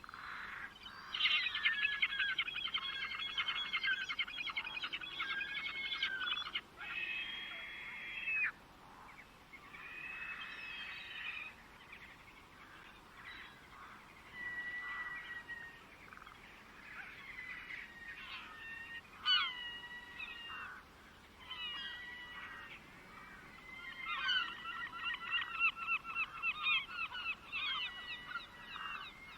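Birds calling and singing in rapid, chattering runs of repeated notes. There is a dense burst from about a second in, sparser calls in the middle, and another dense burst near the end.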